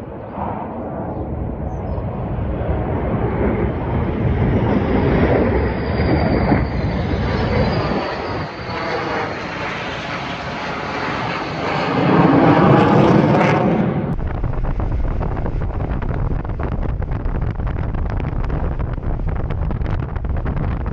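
A jet aircraft flying over, its roar building to a peak with a swirling, phasing sound about twelve seconds in, then cut off abruptly. After that, steady wind noise on the microphone.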